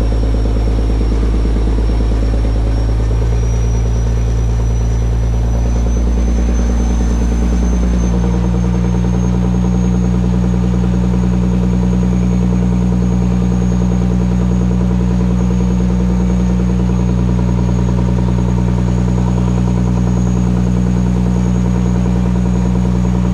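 Fishing boat's engine running steadily, its note shifting about eight seconds in, with a faint high whine that rises slightly over the first ten seconds.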